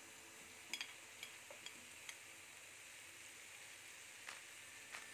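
Faint sizzling of spice paste frying in a pan, with a few light clicks as a spatula moves whole fried pigeons in the pan.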